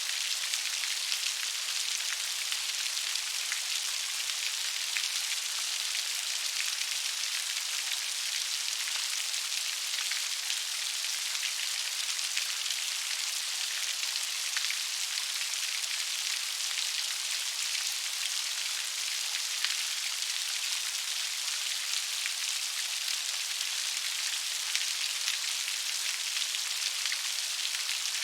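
Gentle rain falling steadily: an even, high hiss dense with fine droplet ticks.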